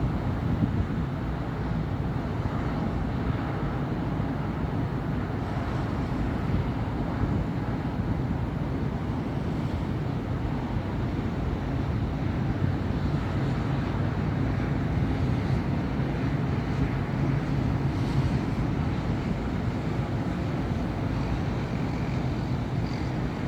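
Steady city traffic: cars and buses passing continuously on a busy avenue as an unbroken low rumble, with no single vehicle standing out.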